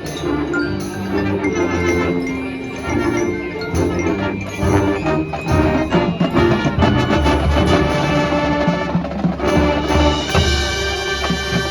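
High school marching band playing its field show music, a full ensemble of sustained tones and percussion, growing fuller toward the end.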